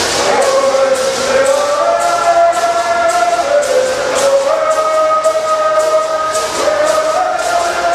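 A group of Southern California Native bird singers singing a bird song in unison, the voices holding long notes and stepping between pitches, over gourd rattles shaken in a steady beat about three times a second.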